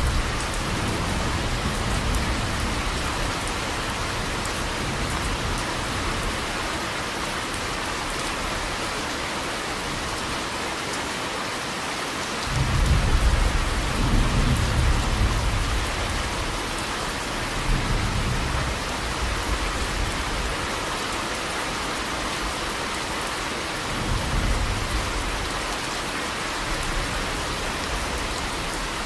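Steady rain falling, with low rolls of thunder: a faint one at the start, the loudest about halfway through, and two weaker ones later.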